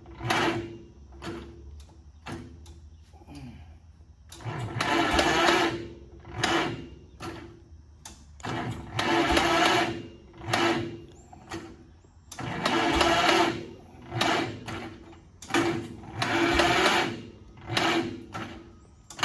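John Deere LA tractor's freshly swapped engine being cranked on the starter with the choke on, in repeated bursts of a second or two, about five times, with short pauses between.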